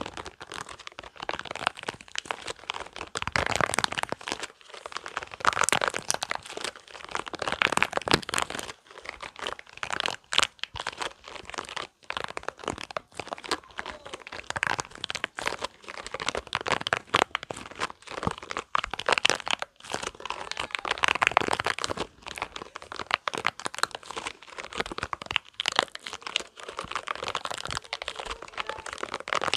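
Spiky rubber balls handled close to the microphone: a continuous, irregular run of crackling, crinkly rubbing and clicking, with louder stretches a few seconds in and again about two-thirds of the way through.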